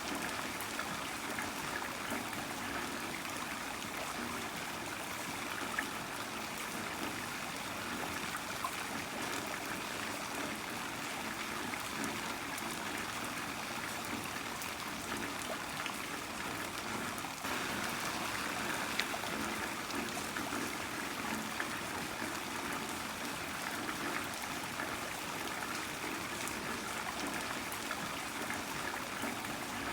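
Heavy rain falling steadily: a dense hiss of many small drop impacts, slightly louder from a little past halfway.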